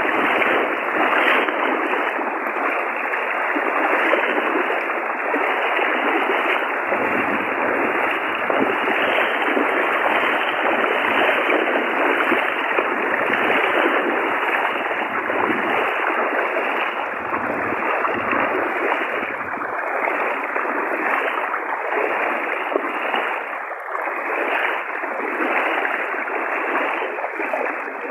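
Fast-flowing floodwater rushing steadily, a continuous even wash of water noise.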